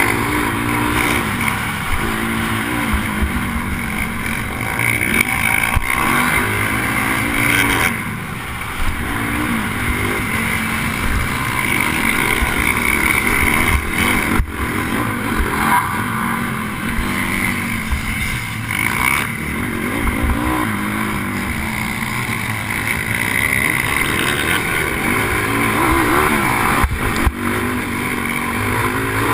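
A pit bike's single-cylinder four-stroke engine being ridden hard, revving up and falling back again and again every second or two, heard from a helmet-mounted camera.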